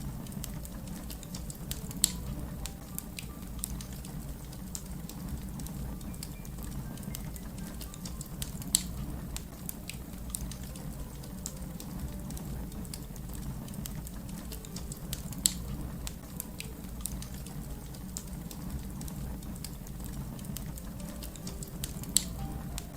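Fire crackling over a steady low rumble, with many small snaps and four louder pops spaced several seconds apart.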